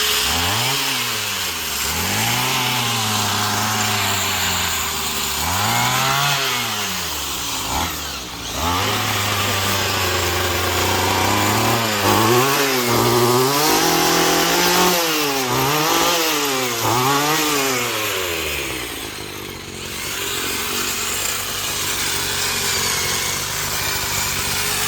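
Small gas engine of a power yard tool, revved up and down over and over, each rev rising and falling over a second or two, with a steadier stretch of running about eight to eleven seconds in.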